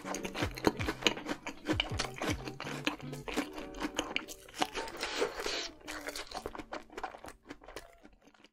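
Close-miked crunching and chewing of a fried corn dog coated in melted cheese sauce: rapid crisp crackles and wet mouth sounds, with soft background music underneath. The sounds thin out and stop just before the end.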